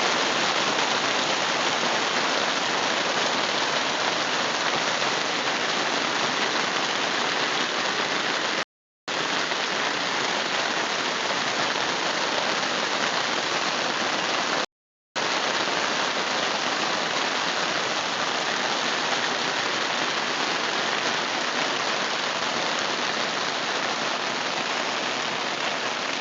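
Steady summer rain falling, a dense even hiss of drops. The sound cuts out completely twice, briefly, about nine and fifteen seconds in.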